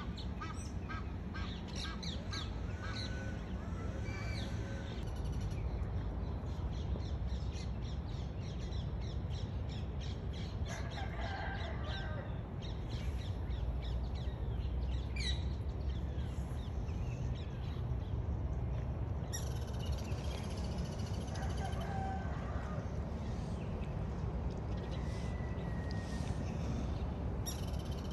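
Several birds calling and chirping in short, scattered calls over a steady low rumble.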